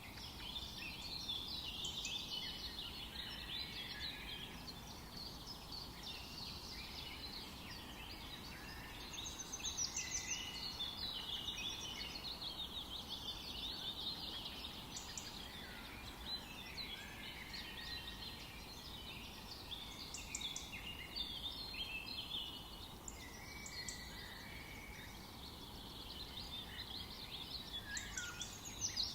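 Several birds singing and chirping at once in forest ambience, a dense chorus of short, overlapping high calls and trills over a faint steady background hiss.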